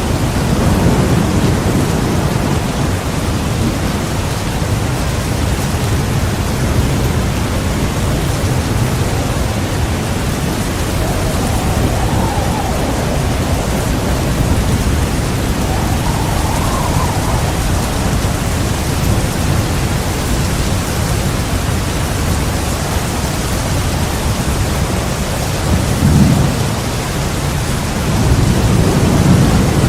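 Steady heavy rain with thunder rumbling low, swelling a little at the start, briefly about 26 seconds in, and again near the end.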